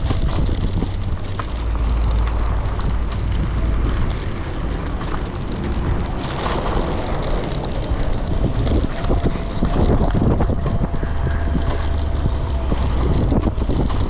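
Wind buffeting the microphone of a moving electric bike, a loud, uneven low rumble over road noise. A faint steady tone comes in about eight seconds in and fades before the end.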